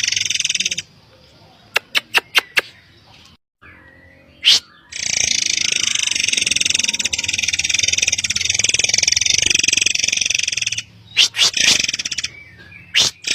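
Forktail (murai air) birdsong: long runs of shrill, high-pitched calling, broken by abrupt gaps, with a few sharp, quick single notes in between.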